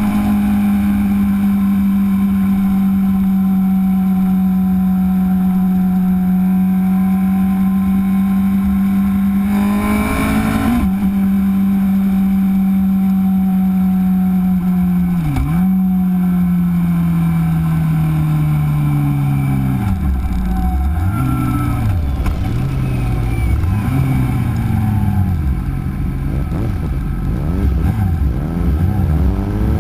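2008 Suzuki GSX-R 600 inline-four running through an M4 aftermarket exhaust. For the first half it is held at a steady pitch, broken by a brief blip about a third of the way in. In the second half the pitch sinks, then rises and falls again and again.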